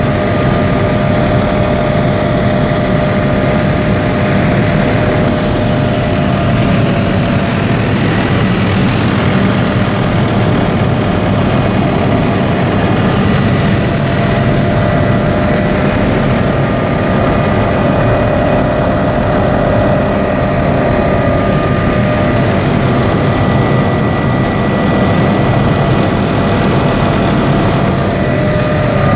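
Helicopter engine and rotor noise as heard on board: a loud, steady low drone with several constant high whines over it.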